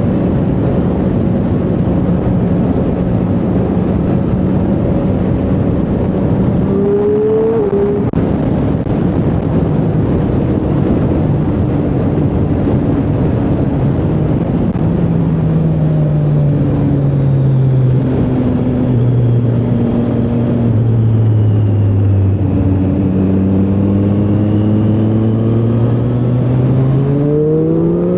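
Triumph Street Triple 765R's 765 cc inline-three engine running under way, heard with wind and road noise. Its revs hold steady, blip up briefly about a quarter of the way in, then fall slowly as the bike slows, and climb sharply near the end as it accelerates.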